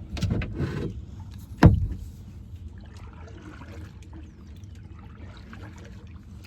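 Kayak on the water with a paddle splash in the first second. About a second and a half in comes a single sharp knock, the loudest sound, then a low steady rumble.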